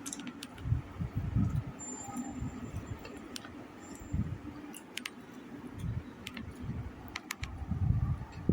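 A person eating: chewing, with small sharp mouth clicks and soft low thuds at irregular intervals.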